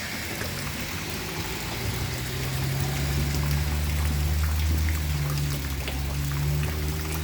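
Steady rain falling, with scattered drips and splashes. A low rumble builds about half a second in and swells through the middle.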